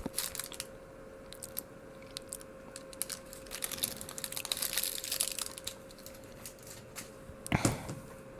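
A person chewing a caramel nut brownie chocolate close to the microphone: soft, scattered crunching clicks from the nuts, with a louder cluster of mouth clicks near the end.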